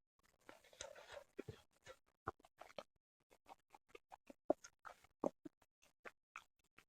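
Close-miked eating sounds from sushi: a short soft rustle of chewing, then many small wet mouth clicks and smacks at an irregular pace.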